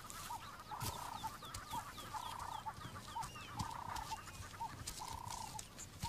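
Birds calling: a call of about half a second repeated roughly every one and a half seconds with short notes in between, over quick, high, downward chirps about three times a second.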